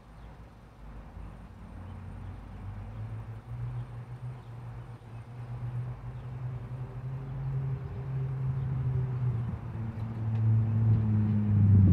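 Car engine running at low revs, a low steady hum that grows steadily louder, loudest near the end.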